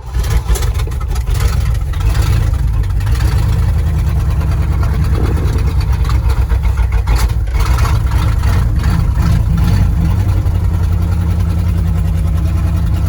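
Old Ford F-250 Highboy pickup's engine catching on a cold start and then running loudly and steadily, with a fast uneven beat.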